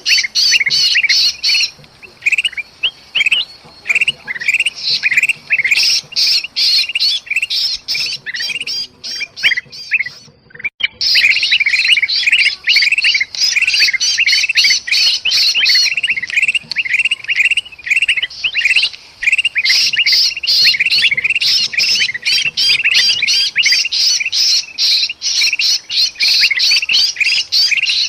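Bulbuls (kutilang) giving rapid, agitated squawking alarm and distress calls, as from a trapped bird, packed densely one after another. There is a brief break about ten seconds in.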